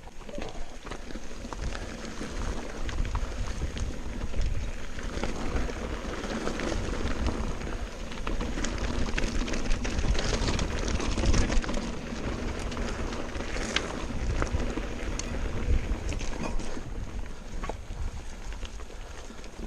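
Wind buffeting the microphone and a mountain bike running down a rough trail, its tyres rumbling over the ground, with scattered clicks and knocks from the bike rattling.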